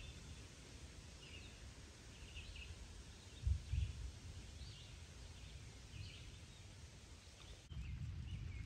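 Faint outdoor ambience of small birds chirping again and again over a low rumble of wind on the microphone. A brief louder low bump comes about three and a half seconds in, and the rumble grows louder near the end.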